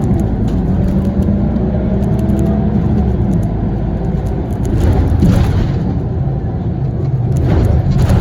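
Scania CL94UB city bus's diesel engine and ZF automatic gearbox running steadily with a low drone, with rushing noise swelling about five seconds in and again near the end.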